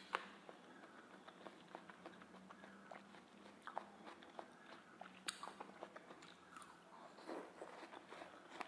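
Faint, wet chewing and biting of watermelon flesh: scattered small clicks and soft crunches, with a sharper click just after the start and another about five seconds in. A faint steady low hum runs underneath.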